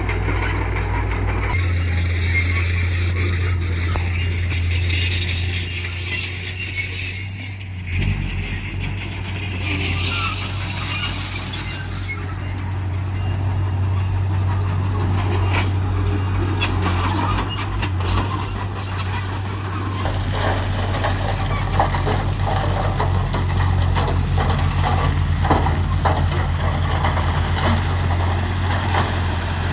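Heavy diesel earthmoving machinery, a bulldozer and dump trucks, running steadily, with metallic squeaks and clanks over the engine drone. The engine note shifts a few times.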